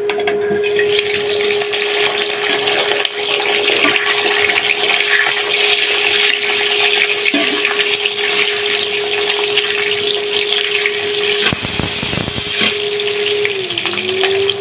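Whole boiled, peeled potatoes sizzling in hot oil in a kadhai: a dense, steady frying hiss while a spatula turns them. A steady hum runs underneath, and a brief rumbling burst comes about three-quarters of the way through.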